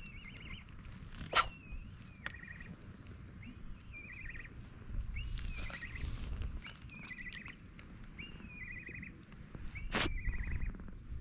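A small bird singing the same short phrase over and over, about once a second: a quick rising note, then a fast trill. Two sharp clicks sound nearby, about a second in and near the end.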